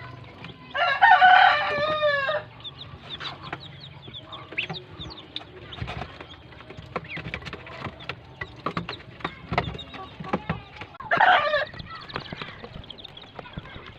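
A rooster crows loudly about a second in, a long call that drops in pitch at the end, and gives a second, shorter call near eleven seconds. Between the calls come many small clicks and faint high peeps, typical of ducklings pecking at food.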